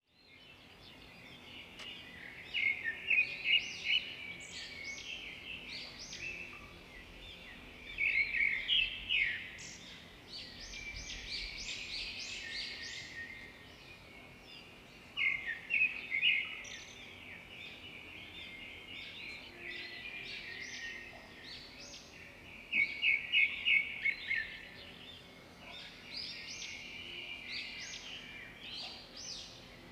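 Birds singing. A loud phrase of rapid trilled notes comes four times, several seconds apart, with softer chirps and calls between them.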